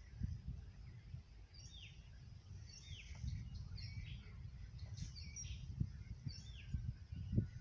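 A wild bird calling over and over, a string of short high notes, some falling in pitch, starting about a second and a half in and stopping near the end, over a steady low rumble.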